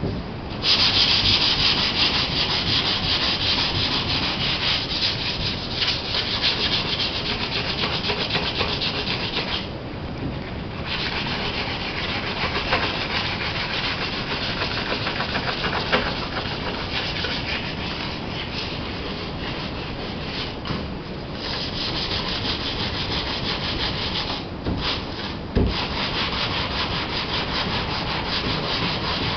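Sandpaper scrubbing steadily over a fiberglass sailboat hull, a continuous scratchy hiss that stops briefly about ten seconds in and twice more later before carrying on. The hull is being sanded back to clean white to get it ready for paint.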